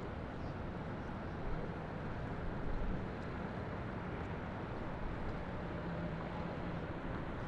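Steady downtown city ambience: a continuous rumble of traffic and engines with a low hum that wavers slightly.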